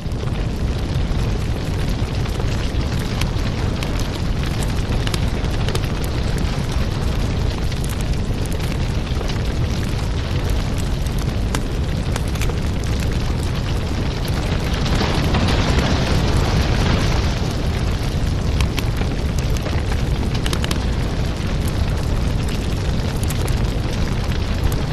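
Wood fire crackling in a fireplace: a steady rush of flame with dense small pops and crackles over a low rumble, swelling a little louder about two-thirds of the way in.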